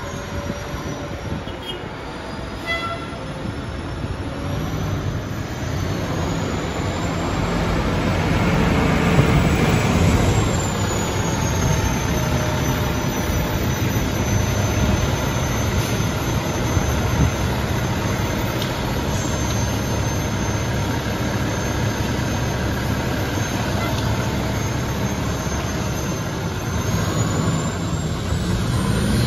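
Fire engine driving without siren: a steady rumble of engine and road noise that builds over the first several seconds, then holds steady.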